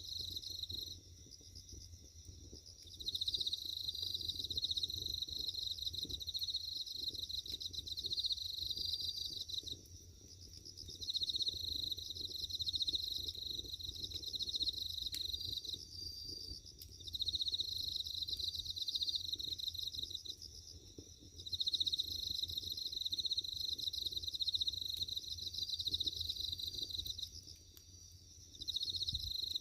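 Insects, crickets by the sound, chirping in long pulsing trills of several seconds broken by short pauses. Underneath is a faint low crackle and rustle from a burning wood fire.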